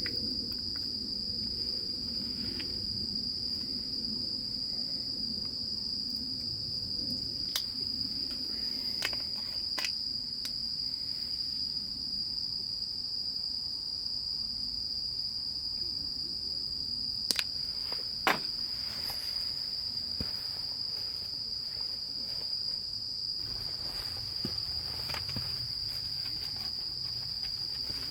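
Insects trilling steadily in one continuous high-pitched chorus. A few sharp clicks or knocks are heard over it, the loudest two close together a little past the middle.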